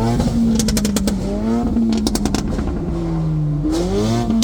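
Car engine revved and held high by the driver on request. The revs drop about three seconds in and climb again near the end, with two quick clusters of sharp crackling pops around one and two seconds in.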